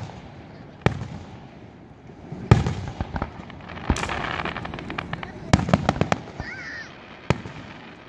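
Aerial firework shells bursting overhead: a string of sharp bangs, the loudest about two and a half seconds in, with a quick run of several bangs just past the middle.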